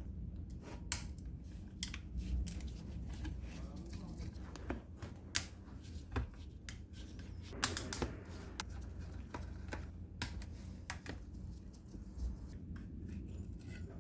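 Irregular clicks and light knocks of hands handling small tool parts, a few sharper ones about a second, five seconds and eight seconds in, over a low steady hum.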